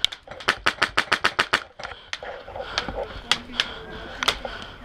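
Airsoft guns firing: a rapid string of about a dozen sharp shots in the first second and a half, then scattered single shots.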